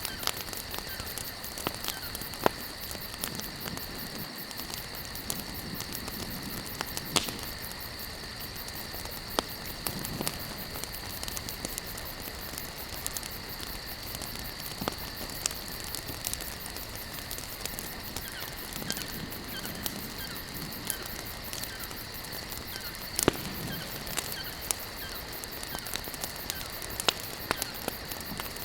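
Wood campfire crackling, with sharp pops scattered throughout and a couple of louder snaps. Beneath it runs a steady high-pitched hum.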